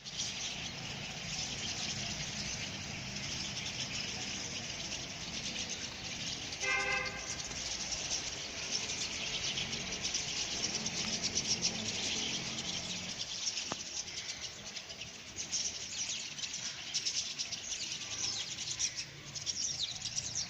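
A flock of small birds chirping and twittering continuously, many calls overlapping into a dense chatter.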